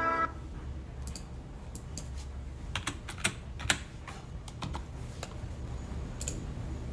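A run of irregular light clicks or taps, about fifteen of them in a few seconds, over a low steady hum. Music cuts off right at the start.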